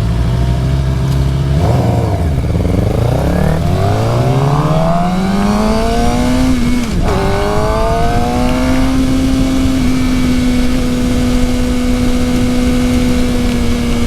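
Suzuki GSX-R750's inline-four engine under way: a quick blip about two seconds in, then engine speed climbing steadily, a sudden drop at a gear shift around seven seconds, and a steady cruise through the second half. A constant rush of wind noise runs underneath.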